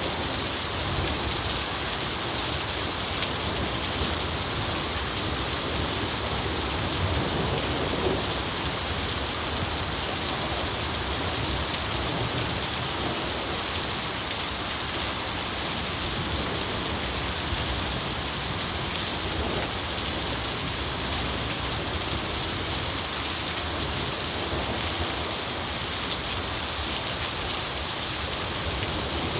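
Steady rain falling and pattering on surfaces, an even hiss at a constant level, with a low rumble of thunder about seven seconds in.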